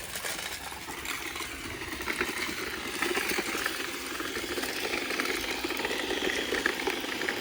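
iRobot Roomba 671 robot vacuum running over a driveway, a steady machine whir with a dense rattle as it picks up tree debris.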